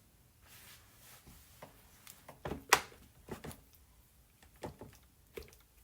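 Scattered light clicks and soft knocks from handling a marinade injector and a raw turkey, with one sharper click a little under halfway through.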